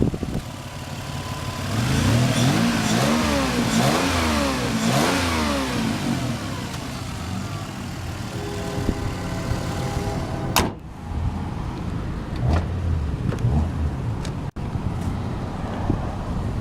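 1998 Lexus ES300's 3.0-liter V6 revved up and let fall back three or four times in quick succession, then running steadily. A single sharp bang cuts in about ten and a half seconds in.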